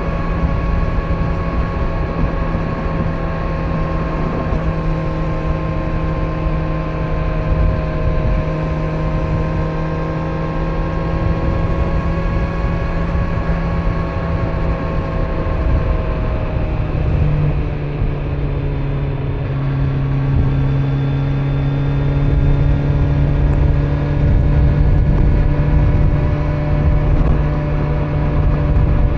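Kawasaki Z900's inline-four engine with stock exhaust at a steady cruise, over wind and road rumble. The engine note eases slightly lower a little past halfway and then holds steady.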